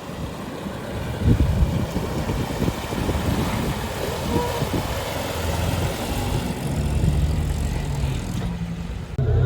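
Off-road 4x4 engine running, with uneven rumbling and knocks for the first few seconds, then a steadier low engine note.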